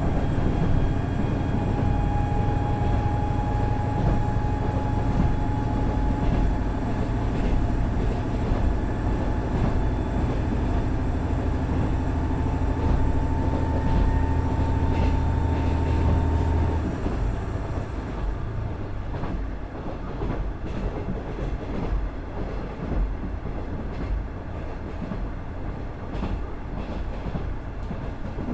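Onboard sound of a KiHa 110-200 diesel railcar: its Cummins DMF14HZA engine pulls under power, its note slowly rising. About two-thirds of the way through the engine note drops away as power is shut off, leaving the wheels rolling on the rails with scattered clicks from rail joints.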